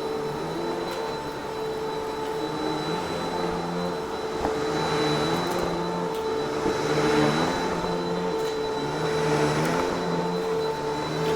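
Upright vacuum cleaner running with a steady motor whine, its rushing sound swelling and easing a few times.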